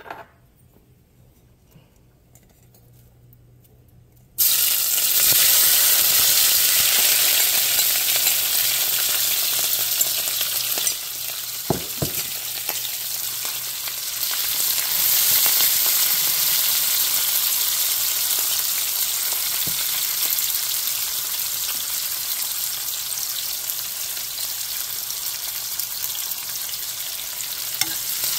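Sliced onions and sweet peppers frying in a hot non-stick pan. The sizzling starts suddenly about four seconds in and goes on steadily while they are stirred with a fork, with one knock about twelve seconds in.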